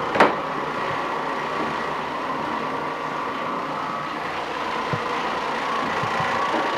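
Electric floor-cleaning machine running steadily with a constant whir, with one sharp click just after the start.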